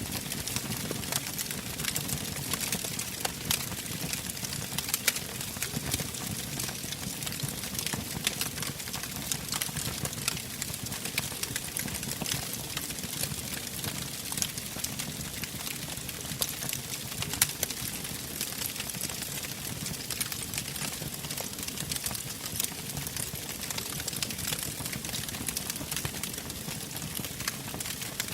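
Wood fire burning in a fireplace, crackling with many small irregular pops and snaps over a steady low rumble and hiss.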